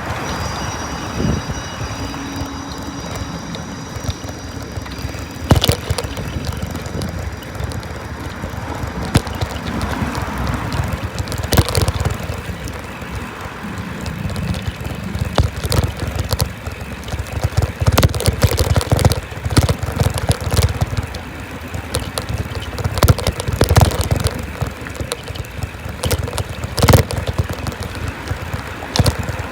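Bicycle in motion: a steady low rumble of wind and rolling noise, broken by frequent sharp knocks and rattles as the bike goes over bumps.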